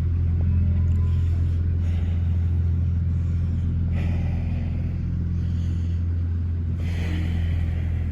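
An old pickup truck's engine running, heard from inside the cab as a steady low drone, with two brief rustles partway through.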